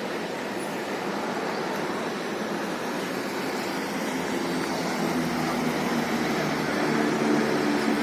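A vehicle engine's steady hum that comes in about halfway through and grows louder, as if approaching, over a steady rushing noise.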